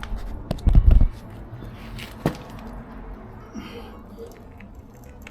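A few metallic clicks and knocks from handling a car jack and wheel-changing tools. About a second in there is a low thudding rumble, and a sharp click comes a little over two seconds in.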